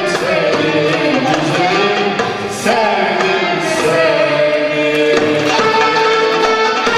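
Turkish art music choir and instrumental ensemble performing: melodic instruments over hand-drum percussion, with voices singing.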